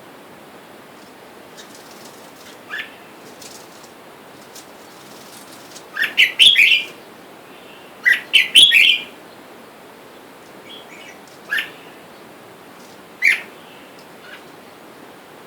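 Red-whiskered bulbuls calling: short, bright chirping phrases, a few single calls and two louder clusters of quick notes about six and eight seconds in.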